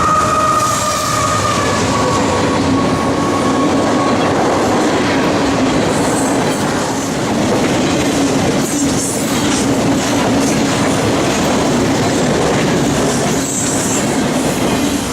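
A train passing, with steel wheels rumbling and clattering steadily over the rails. The last of a horn note fades out in the first few seconds.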